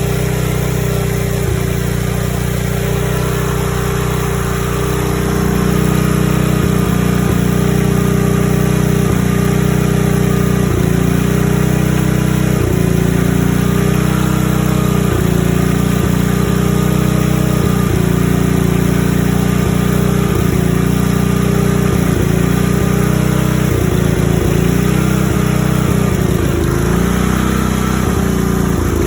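Coleman Powermate generator's 5 HP Briggs & Stratton single-cylinder four-stroke engine running steadily through a modified, quieted muffler. It gets louder about five seconds in, then holds steady with brief small dips in pitch.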